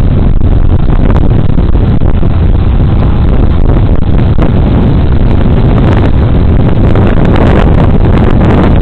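Loud, steady wind noise over a Boblov DMT204 bodycam's microphone on a moving Suzuki Burgman Street 125 scooter, with the scooter's engine and road noise underneath.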